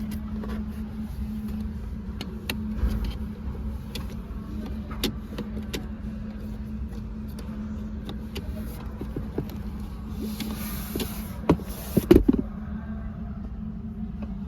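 A Ford Ranger Raptor sits with a steady low hum, with scattered sharp clicks and a cluster of louder knocks about twelve seconds in.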